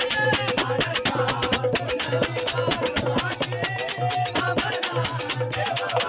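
Instrumental passage of Marathi bhajan music: fast, dense percussion beats over a steadily held note.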